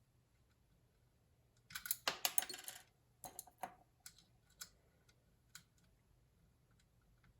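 A quick run of sharp clicks and clatter about two seconds in, then a few single clicks spaced out over the next few seconds, like small hard parts being handled, all over a faint steady hum.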